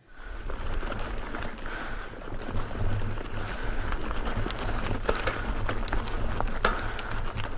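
Mountain bike rolling over a rough dirt and gravel trail: tyre crunch with many scattered clicks and rattles, over a steady low rumble of wind on the microphone.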